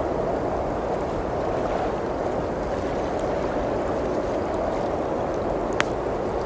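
Steady rushing noise of blizzard wind, with a few faint crackles from a wood fire and one sharp pop from the fire near the end.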